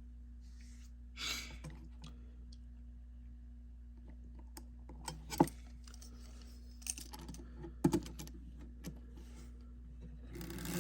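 Scattered small clicks and taps of a model train chassis and tools being handled, with a brief rustle about a second in and two sharper clicks around the middle. Near the end the HO-scale railcar's small electric motor and freshly greased gears start running with a steady whir.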